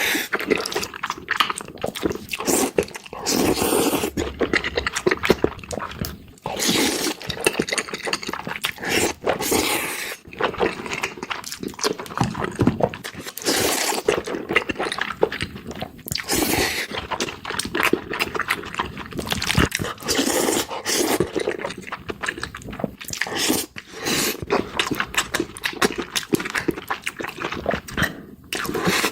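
Close-miked eating of black bean noodles and chili pepper kimchi: wet chewing and slurping broken by crunchy bites, in quick irregular bursts.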